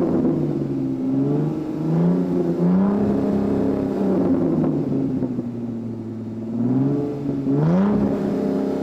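A vehicle engine revving, its pitch rising and falling several times and climbing again near the end.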